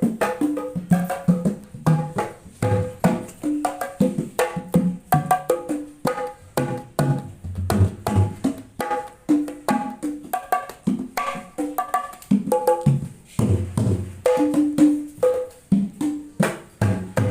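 Sundanese jaipong kendang played solo in a quick, syncopated pattern of deep bass thuds and sharper higher slaps, a sound test of the freshly serviced drum. The playing stops near the end.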